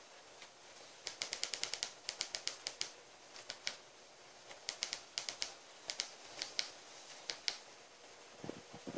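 Fireplace fire crackling: irregular runs of sharp pops and ticks, several clustered quickly together, with short gaps between the runs.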